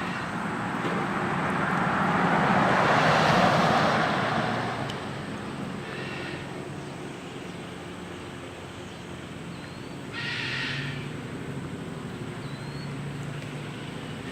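A vehicle passing, its noise swelling and fading over a few seconds. Short bird chirps and calls follow later.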